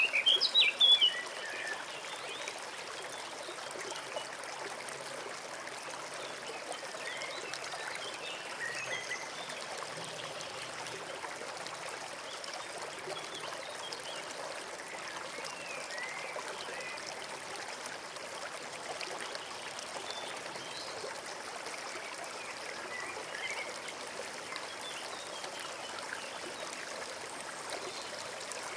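Small forest stream trickling and babbling steadily. Birds chirp loudly in the first second, then only faint, scattered calls.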